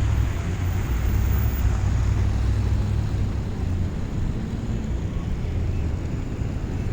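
Blizzard wind buffeting the phone's microphone as a steady low rumble, over the noise of city street traffic.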